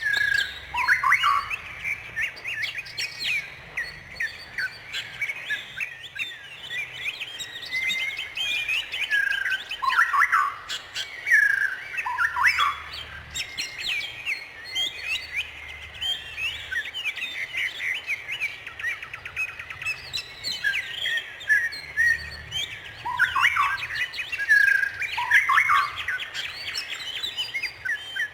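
Songbirds singing and chirping together in a dense, unbroken chorus: rapid chirps and trills with repeated down-slurred whistles, several birds calling over one another.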